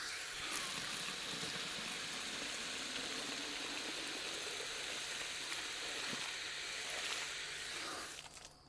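Water from a garden hose running steadily into a rabbit's water bottle as it is refilled, stopping shortly before the end.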